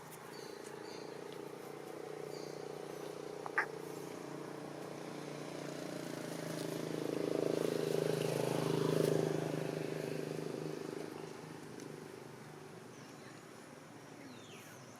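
A motor vehicle's engine running as it passes: a steady low hum that grows louder to a peak about two-thirds of the way through, then fades away. A single short click comes a few seconds in.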